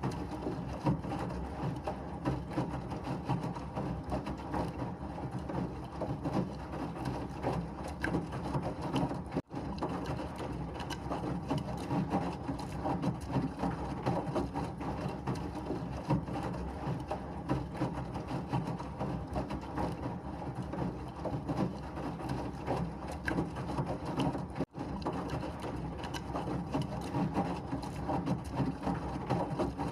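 Washing machine running with a steady churning, rattling noise, used as white noise. It drops out for an instant twice, about ten and twenty-five seconds in.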